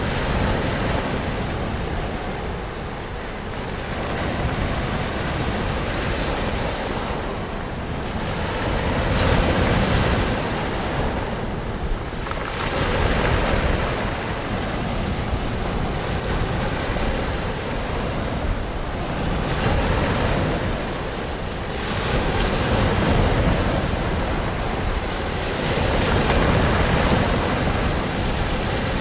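Ocean waves breaking and washing on a shore in a continuous roar that swells and eases every few seconds, with some wind noise on the microphone.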